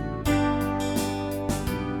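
Acoustic guitar strumming chords in an instrumental break of a song.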